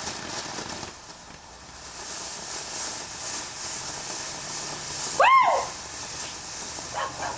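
A lit firework hissing steadily as it spews sparks. About five seconds in, a short loud high cry rises and falls over it.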